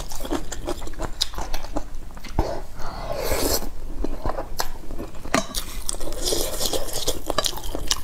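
Close-miked chewing and wet mouth clicks while eating noodles and braised meat, with a short slurp from a wooden spoon about three seconds in.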